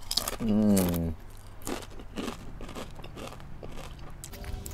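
Crunchy spicy corn chips dipped in nacho cheese sauce being bitten and chewed close to the microphone, a series of soft crunches. A short hummed "mmm" falling in pitch comes in the first second.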